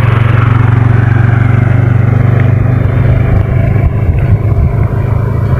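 A vehicle engine running with a steady low hum under a rushing noise. The note turns choppier and uneven about four seconds in.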